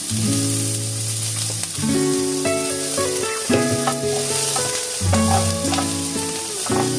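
Food sizzling as it fries in a pan, a steady hiss, under background music with held notes that change every second or so.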